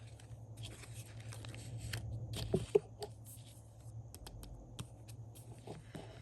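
Paper sticker sheets and book pages being handled: light rustling and scattered small taps, with a couple of sharper clicks about two and a half seconds in, over a steady low hum.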